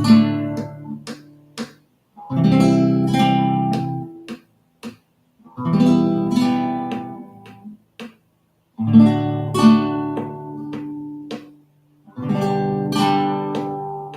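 Acoustic guitar strummed in a guarânia rhythm, down-up-down-up-down, on a warm-up chord progression. It comes in phrases starting about every three seconds, each ringing out into a brief silence before the next.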